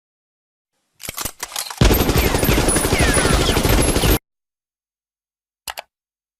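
Automatic gunfire sound effect: a few sharp clicks, then a sustained burst of rapid shots lasting about two seconds that cuts off suddenly, with one short click near the end.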